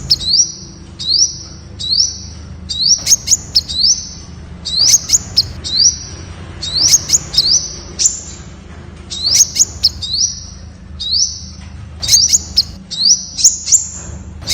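Temminck's sunbird calling: short, high rising chirps repeated about once a second, each with sharp clicking ticks, over a faint low hum.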